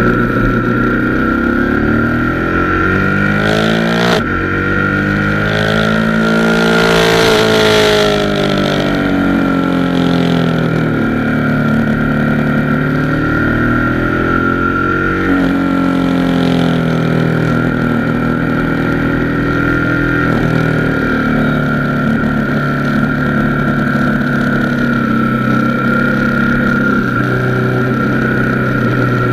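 Motorcycle engine running under load, its revs rising and falling repeatedly through a series of bends. Wind rush builds to a peak about six to eight seconds in, and a steady high whine sits beneath it throughout.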